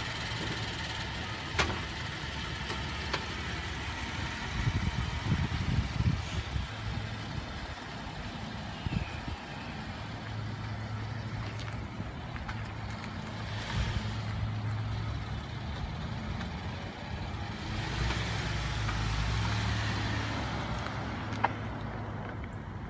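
Chevrolet Traverse SUV's V6 engine idling just after starting, with a steady low hum, then the car pulls away and drives off at low speed.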